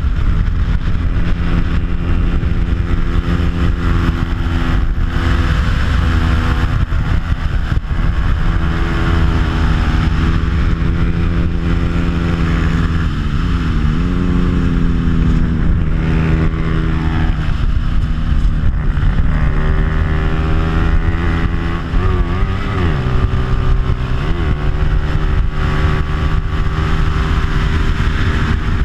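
Stock Bajaj Pulsar 200 single-cylinder four-stroke engine fitted with an aftermarket exhaust, running hard at racing revs, with wind rushing past. The pitch steps up through the gears and drops sharply twice, about halfway and about three quarters through, before climbing again.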